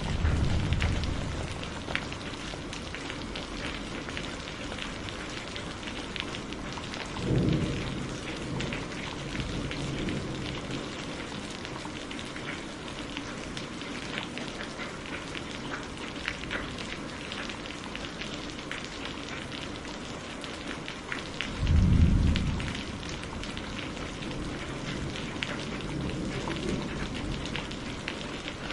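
Steady heavy rain, with drops pattering and ticking on a surface. Low thunder rumbles swell and fade three times: at the start, around seven seconds in, and loudest around twenty-two seconds in.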